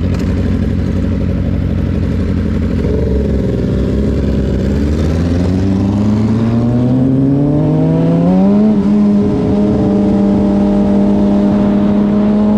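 Suzuki GSX-R600 sport bike's inline-four engine pulling away. A low rumble climbs steadily in pitch for about five seconds, dips briefly, then holds a steady pitch as the bike cruises.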